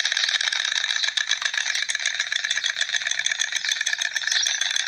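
Stork clattering its bill: a rapid, continuous rattle of dry clicks.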